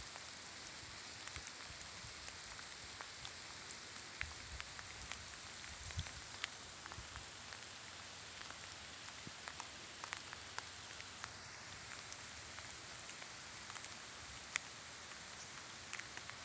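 Steady rainfall: a soft, even hiss of rain with many scattered sharp ticks of individual drops landing close by.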